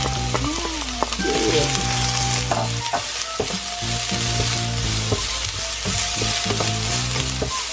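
Chopped onion, garlic and ginger sizzling in hot oil in a wok, stirred with a wooden spatula that scrapes and knocks against the pan now and then.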